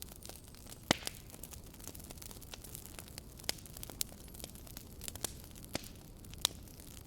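Campfire crackling: wood burning with irregular sharp pops and snaps over a low steady hiss, the loudest pop about a second in.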